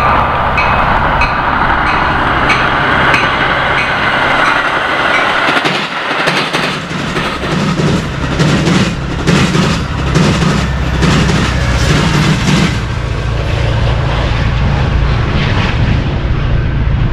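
Metra commuter train passing at speed through the railroad diamond, its wheels banging over the crossing rails in a long run of irregular knocks over a heavy rumble. In the first five seconds a grade-crossing bell dings about twice a second over the train's rush.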